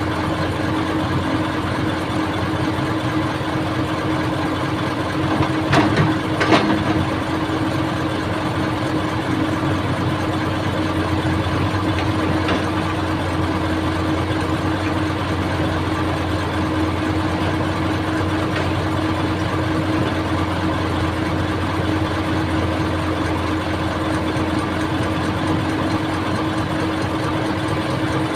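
An old excavator's diesel engine running at a steady speed, with two sharp knocks close together about six seconds in.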